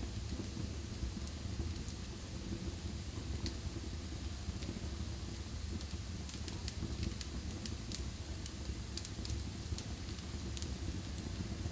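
Fire burning in a fireplace: scattered sharp crackles and pops over a steady low rumble.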